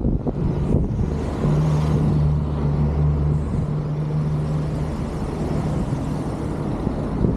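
Wind rushing over the microphone while riding an electric unicycle, with a steady low hum of a motor vehicle from about one and a half to five seconds in.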